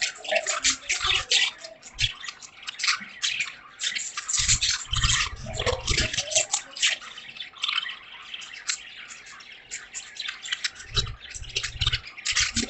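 Rain dripping and splashing: a dense, irregular patter of sharp drop ticks, with a few low thuds of heavier drops striking a surface.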